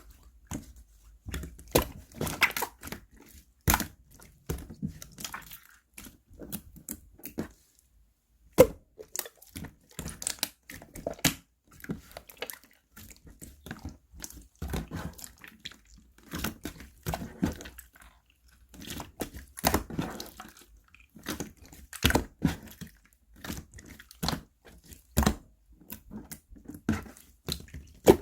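Slime being squished, pressed and stretched by hand, giving an irregular run of wet clicks, pops and crackles.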